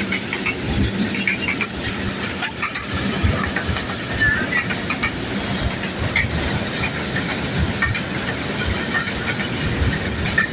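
Freight train running through the station without stopping. Its wagons rumble and their wheels clatter over the rails steadily.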